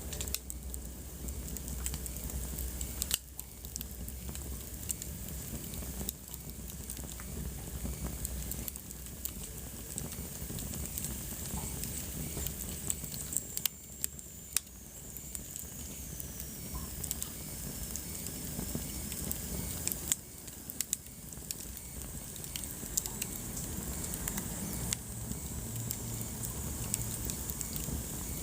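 Wood fire burning in a fireplace, crackling with scattered sharp pops over a steady hiss and low rumble. About halfway through, a faint high whistle slides down in pitch.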